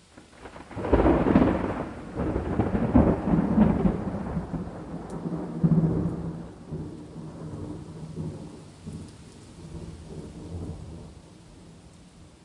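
A thunderclap about a second in, cracking and rumbling loudly through several peaks over the next few seconds, then rolling away and fading out near the end, over a steady hiss of rain.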